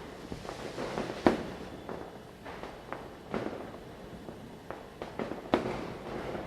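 Firecrackers bursting at irregular intervals, some near and sharp, others fainter and farther off, with rumbling echoes after the bangs. The two loudest bangs come about a second in and a little past five seconds in.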